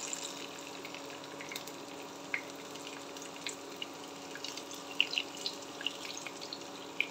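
Eggplant pieces shallow-frying in hot oil in a pan: a steady sizzle with scattered crackles and a few sharper pops, clustered about five seconds in. A faint steady hum runs underneath.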